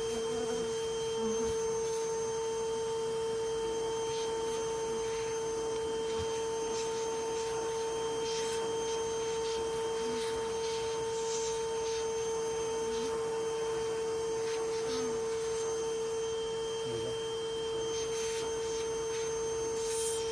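Steady high-pitched hum of a bee vacuum's electric motor running at constant speed, one unchanging tone, with faint scrapes and brushes of the comb work over it.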